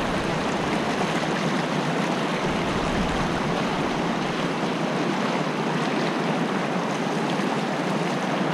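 Fast-flowing creek water rushing steadily over rocks.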